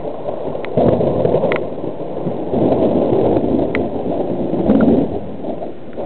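Rolling thunder from a lightning storm: a loud rumble that swells and fades in several waves.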